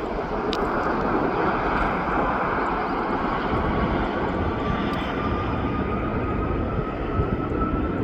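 AirAsia Airbus A330-300's twin jet engines at takeoff power, a steady dense roar. A thin whine rises slowly in pitch through the second half.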